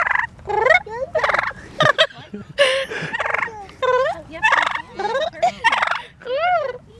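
Turkeys gobbling repeatedly: a quick series of about a dozen short, rattling gobbles, some overlapping, as the birds answer a person's gobble imitations.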